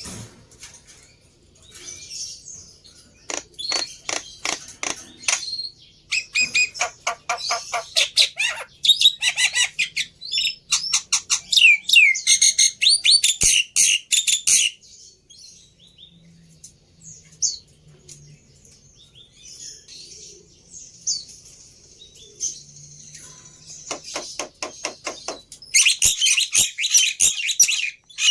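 Black-winged myna (jalak putih) singing: bouts of loud, rapid harsh chattering mixed with whistled notes, fading to thinner high calls in the middle and coming back loud near the end. This is a lure song used to make a quiet caged myna answer.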